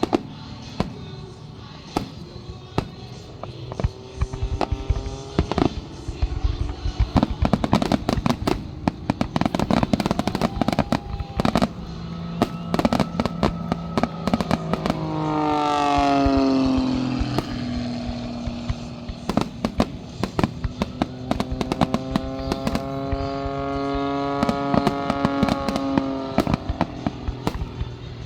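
A fireworks finale: rapid, irregular firework bangs and crackling reports keep going throughout, over show music with long gliding tones.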